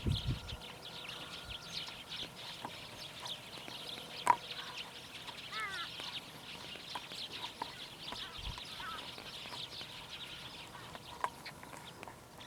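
Many birds calling and chattering in a dense, continuous high twitter, with a short curved call just past the middle, a sharp click about four seconds in and a brief low thud later on.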